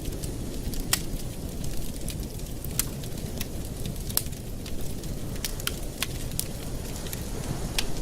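Wood fire crackling in a fireplace: irregular sharp pops and snaps, about a dozen, over a steady low rumble.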